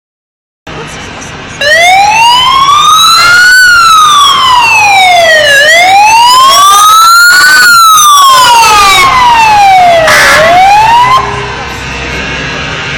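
A wailing siren, very loud, its pitch rising and falling slowly about every four seconds. It starts about a second and a half in and cuts off partway through a rise near the end.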